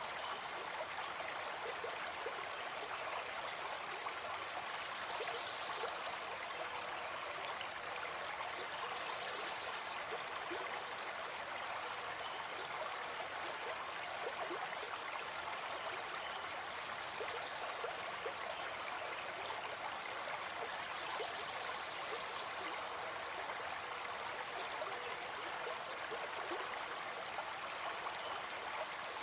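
Small forest stream flowing steadily over stones, an even rush of water with fine splashing and trickling in it.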